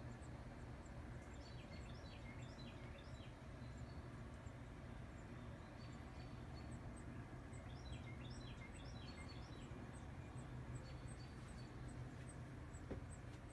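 A wren singing: two rapid runs of chirping notes a few seconds apart, with a shorter phrase near the end. Faint high chirps repeat throughout over a steady low background rumble.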